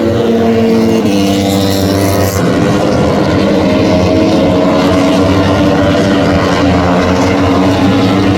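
MotoGP racing motorcycle engines running at high revs, loud and steady. The sound changes abruptly about a second in and again after two seconds, as the shots cut.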